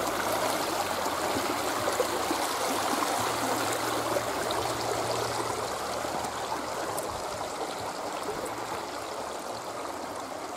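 Shallow river water running and trickling over stones, a steady rush that eases slightly toward the end.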